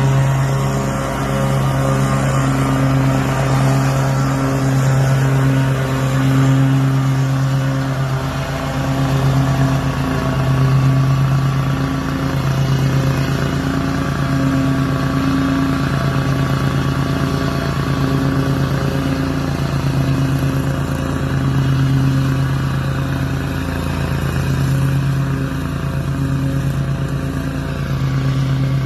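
Small gasoline engine of grass-cutting equipment running steadily at a constant pitch, its loudness swelling and dipping gently as it works.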